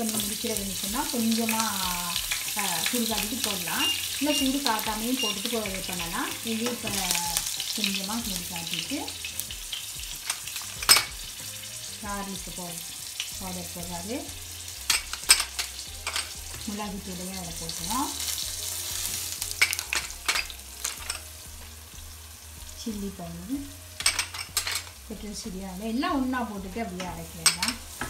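Green chillies frying in hot oil in a nonstick pan, stirred with a wooden spatula: steady sizzling with a few sharp spitting pops. A wavering pitched tone comes and goes throughout.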